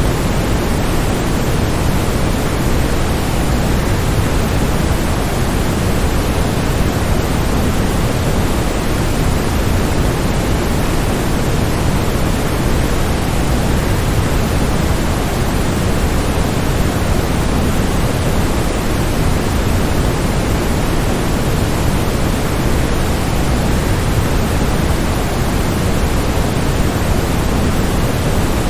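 Waterfall: falling water making a loud, steady, even rush, heaviest in the deep range, that does not change.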